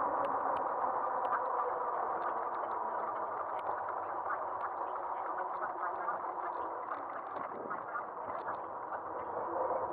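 Aostirmotor S17 e-bike riding along: a steady whine over tyre and wind noise, with scattered small clicks and ticks, growing gradually quieter toward the end.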